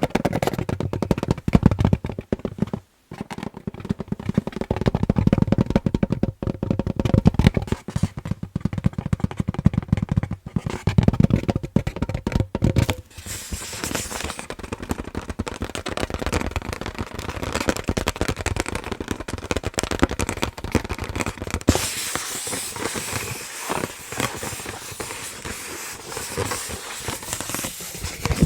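Close-up tapping and scratching on an inflated balloon: a dense run of rapid taps with heavy low thumps for the first thirteen seconds or so, then lighter, and from about twenty-two seconds in a hissier scratching on the rubber.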